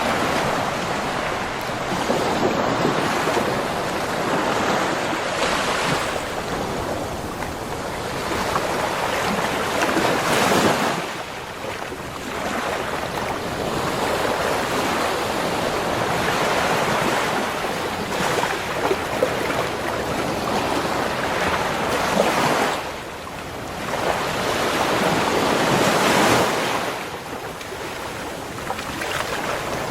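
Ocean surf breaking and washing up a beach shore: a continuous rush of water that swells to a crest and drops back into short lulls several times.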